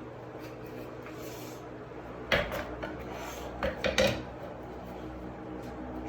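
Knocks and a brief clatter of ventilation hardware being handled, one about two seconds in and a quick cluster of three around four seconds in, over a steady low hum.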